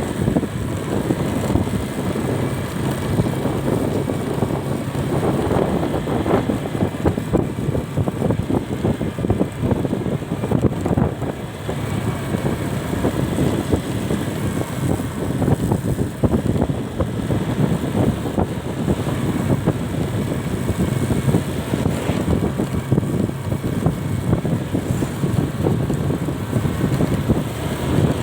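Wind buffeting the microphone on a moving vehicle, a steady low rushing and fluttering over road and engine noise.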